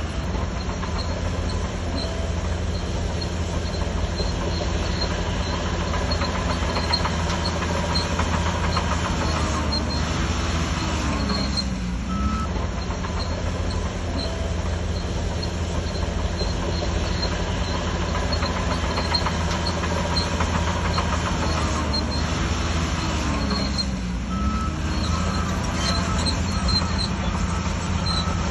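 Shantui DH17C3 crawler bulldozer working: its diesel engine runs steadily under load, with squealing and clanking from the tracks. The engine note dips and recovers twice, about 11 seconds in and again around 23 seconds.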